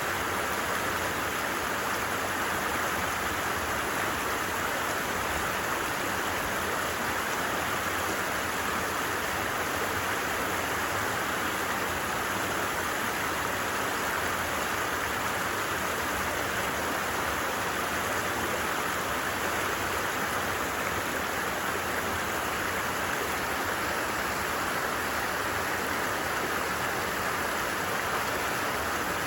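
Stream water running steadily over rocks, an even rushing babble with no breaks.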